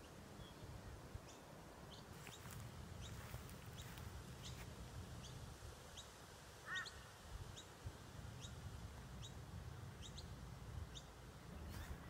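Faint, short, high bird chirps, each rising quickly, repeating about twice a second, with one lower bird call about halfway through. A low rumble of wind noise on the microphone sits underneath.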